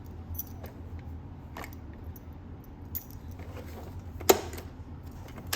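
Plastic parts of a Keurig K-Duo Plus coffee maker being handled: a few light clicks and taps, then a sharp click about four seconds in and another near the end.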